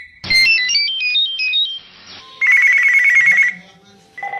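A ringtone tune: a quick run of short beeping notes stepping up and down, then, after a brief gap, a fast warbling trill on one high note.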